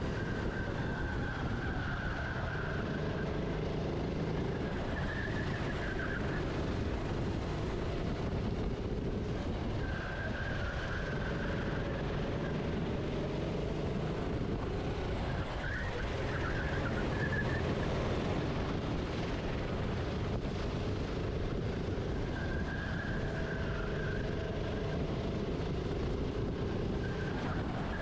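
Onboard sound of a racing kart's engine, its pitch climbing and dropping again and again as it accelerates and brakes through corners, with wind on the microphone.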